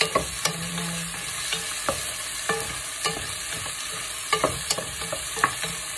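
Onion and tomato sizzling in hot oil in a pot as they are sautéed, stirred with a wooden spatula that clicks and knocks against the pot at irregular moments.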